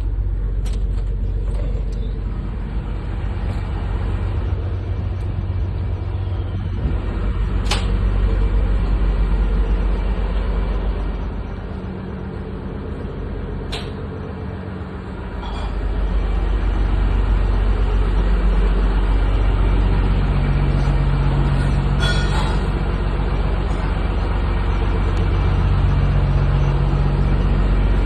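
Engine running with a steady low rumble, easing off for a few seconds around the middle before picking up again, with a few faint clicks.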